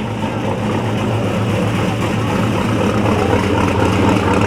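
Car engine running steadily with a low hum that grows slightly louder.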